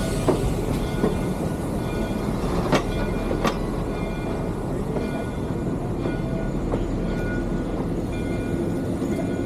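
Steady rumble and clatter of a three-truck Shay geared steam locomotive, heard from its cab, with a couple of sharp knocks about three seconds in.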